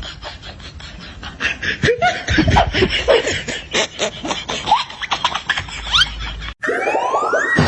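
Laughter in rapid breathy bursts with short squeaky rises. About a second before the end it cuts to a different sound with a long rising whistle-like tone.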